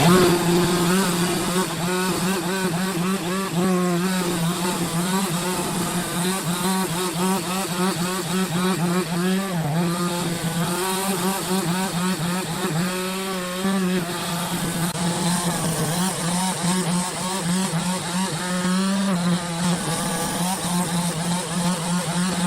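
Engine of a saw running at a steady high speed under load while slicing a big log into slabs, its pitch wavering slightly as the cut goes on.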